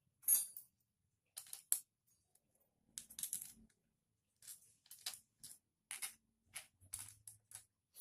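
Small metal engine parts and hand tools clicking and clinking as a motorcycle engine is assembled by hand. There are about a dozen short, sharp, irregular sounds.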